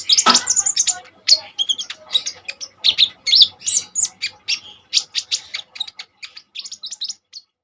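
Kolibri ninja sunbird singing vigorously: a rapid string of high, sharp chirps and squeaky notes that thins out near the end.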